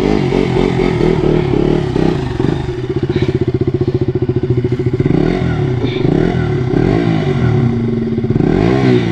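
Motorcycle engine running steadily, with the revs rising and falling several times in the second half.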